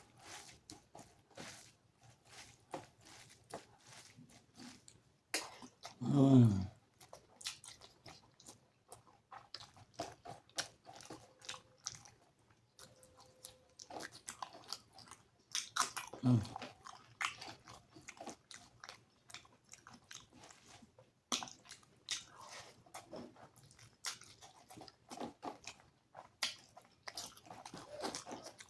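Close-miked chewing and biting of a rice-and-curry meal: a steady run of wet mouth clicks and smacks. About six seconds in there is a louder short sound falling in pitch, and a weaker one like it around sixteen seconds.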